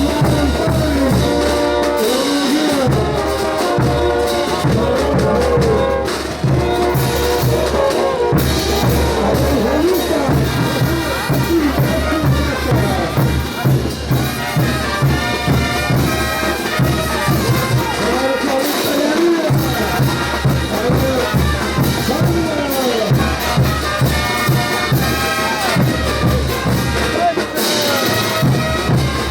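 Bolivian brass band playing a ch'uta dance tune: trumpets and trombones carry the melody over a steady low drum beat that drops out briefly a few times.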